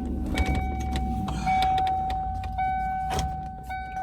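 Car running, heard from inside: a steady low engine and road rumble with a steady high-pitched whine, and a few sharp clicks, the loudest about three seconds in.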